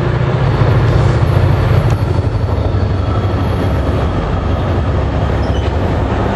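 NJ Transit commuter train of bilevel coaches, hauled by a PL42AC diesel locomotive, approaching the platform: a steady low rumble.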